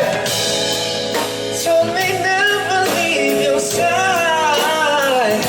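Live pop song performance: a male singer holding long, wavering sung notes over a band with drums.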